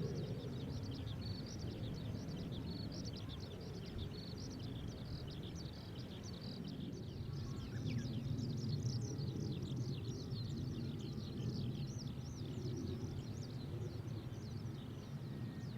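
Many birds chirping, with a dense stream of short, quick calls, over a steady low rumble.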